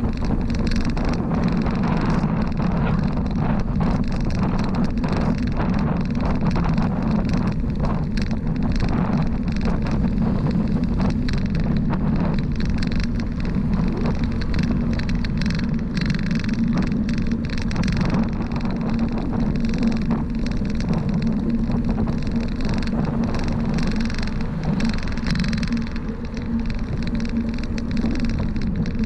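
Steady road noise from a moving bicycle ride on a highway: a constant low hum with many small clicks and rattles throughout.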